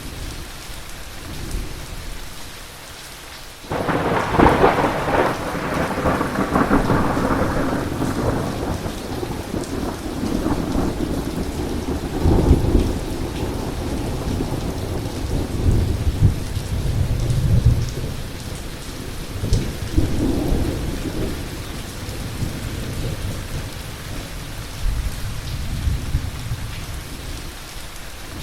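Heavy thunderstorm: steady heavy rain, with a sudden close thunderclap about four seconds in that rolls on as a long rumble, then further rolls of thunder through the rest.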